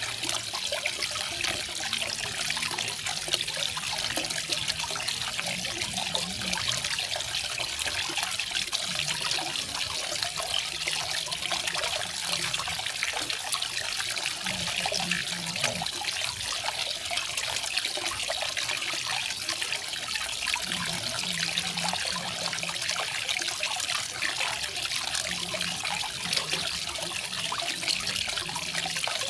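Garden waterfall splashing and trickling steadily, an even hiss of falling water with faint low gurgles now and then.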